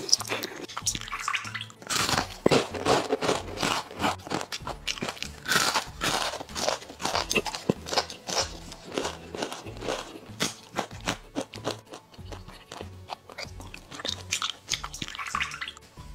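Close-miked crunchy biting and chewing of crisp pan-fried buns dipped in chili sauce: a dense run of sharp crackles and mouth sounds, with background music under it.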